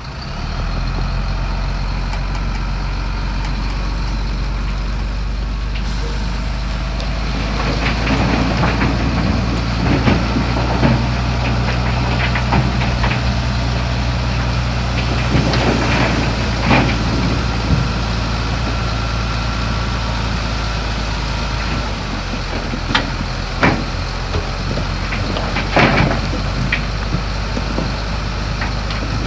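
Heavy diesel earthmoving machinery running steadily under load, with repeated sharp metallic clanks and squeaks scattered through the middle and near the end.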